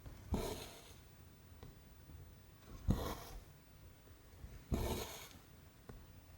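Cotton thread being pulled through 14-count cross-stitch canvas: three short rasping swishes, about two seconds apart, one per stitch.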